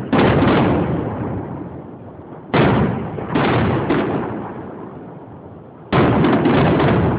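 Aerial firework shells bursting in a series of loud bangs, each trailing off in a rumbling echo. One bang comes just after the start, a quick run of three begins about two and a half seconds in, and a final bang near the end is followed by rapid crackles.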